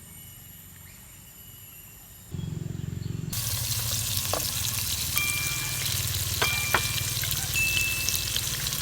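Food sizzling in a hot pan, an even frying hiss that starts suddenly a few seconds in, with a few light clinks of a metal utensil against the pan.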